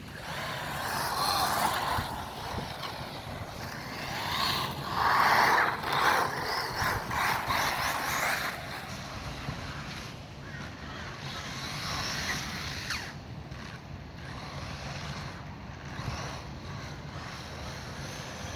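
Electric 4S RC truggy driving on wet dirt, its motor and tyres heard through wind buffeting the microphone, loudest about five to six seconds in.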